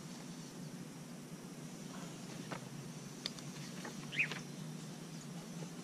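Faint outdoor background with a steady low hum, a few short bird chirps (the clearest a quick falling chirp about four seconds in), and the soft rustle of magazine pages being turned.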